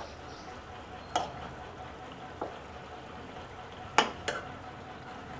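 Chicken pieces sizzling as they fry in oil, butter and tandoori masala in a metal pot, with a metal spoon clinking against the pot four times as the pieces are turned over. The loudest clink comes about four seconds in.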